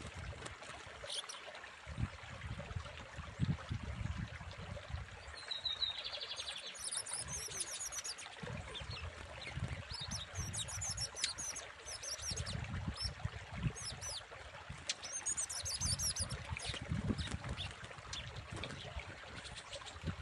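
Lined seedeater (bigodinho) singing: several bursts of fast, high twittering phrases with a short buzzy note before them, over a low rumbling noise.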